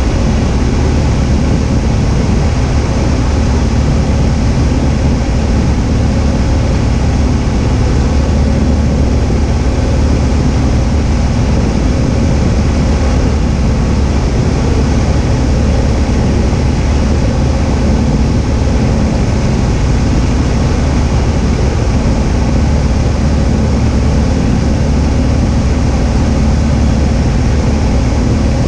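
Cessna 172H's six-cylinder Continental O-300 engine and propeller running steadily in flight, heard as a loud, even drone with a deep hum.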